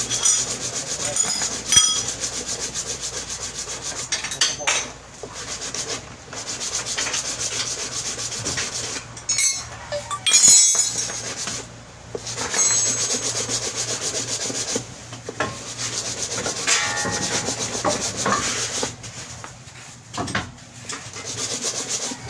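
Rapid back-and-forth scraping strokes by hand on a workpiece, in runs of a few seconds with short pauses between them.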